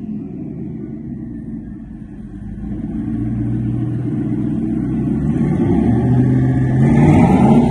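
Car engine running with a low rumble that grows louder from about two and a half seconds in, then revs up, rising in pitch near the end.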